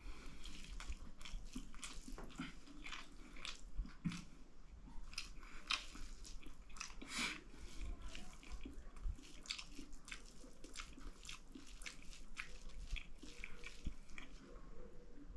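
Close-miked chewing of a mouthful of dal bhat, with wet smacking and small mouth clicks coming irregularly, several a second.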